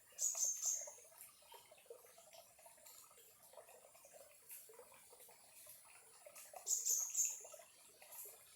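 Small stream trickling and babbling over stones, a steady patter of little water clicks. Twice, about six seconds apart, a short high-pitched chirping call rings out above the water, louder than the stream.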